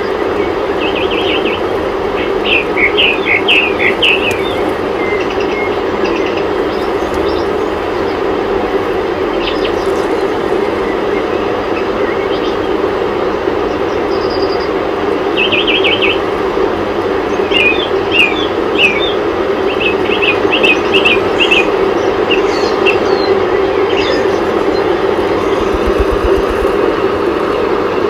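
Small birds chirping in quick runs of high notes, in two spells, one near the start and one in the middle, over a steady rumbling background noise.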